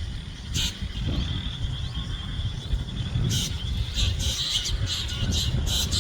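Bird calling in short, sharp high notes: one about half a second in, then a quick run of them from about three seconds on, over a steady low rumble.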